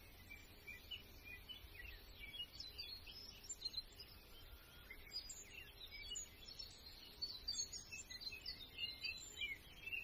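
Faint chirping of small birds: short, high calls scattered through, growing busier in the second half.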